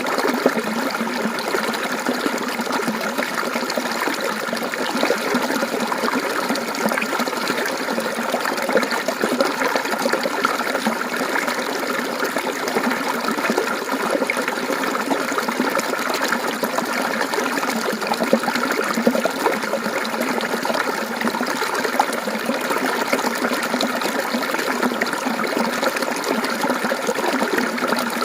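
Mountain stream water flowing and babbling steadily over rocks.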